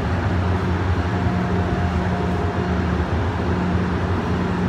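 MARC commuter train standing at the platform, giving a steady low hum and rumble.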